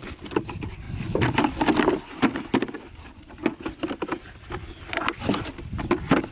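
Irregular taps, knocks and scrapes following one another, loudest between about one and two seconds in and again about five seconds in.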